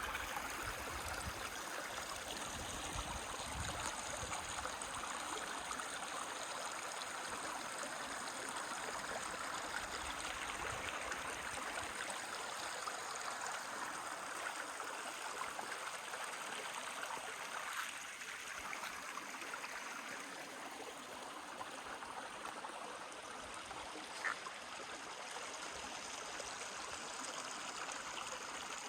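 Stream water flowing steadily, an even rushing trickle, with a single short high chirp about three-quarters of the way through.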